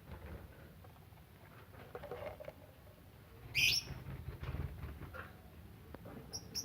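Lovebirds giving short, sharp chirps, the loudest about three and a half seconds in and another near the end, with faint clicks between.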